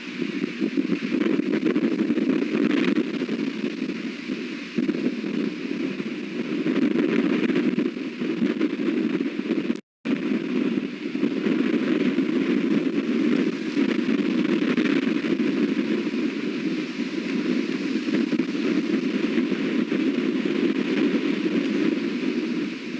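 Strong wind buffeting the nest-cam microphone: a steady rushing noise that swells and eases, cut by a brief total dropout of the audio about ten seconds in.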